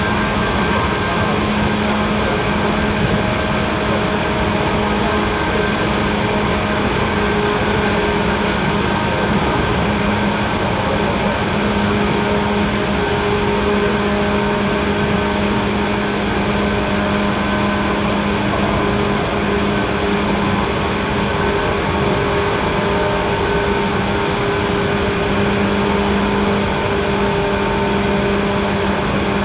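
JR East 185-series electric train running at steady speed, heard from inside the passenger car: a continuous rumble of running noise with a steady hum of a few held tones.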